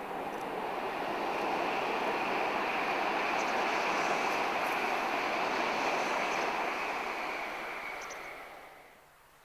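Hokuriku Shinkansen E7/W7-series high-speed train passing by at speed: a rushing noise that swells, holds for several seconds, then fades away near the end.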